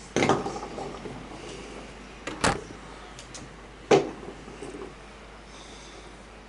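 Three sharp knocks or bangs, spaced a second or two apart, with fainter clicks between them.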